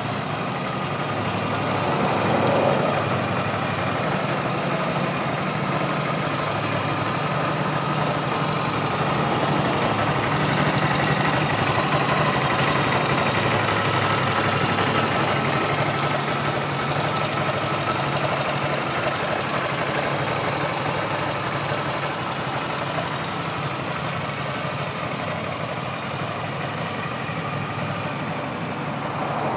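Honda MSX125's small air-cooled single-cylinder four-stroke engine idling steadily, with a brief swell in level about two and a half seconds in.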